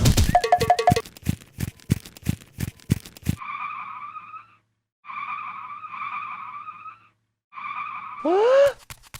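Cartoon sound effects. A noisy burst and four quick blips give way to a fast run of clattering taps. Then a high whistling tone is held in three stretches with short breaks, followed by a quick rising swoop and a few more clicks near the end.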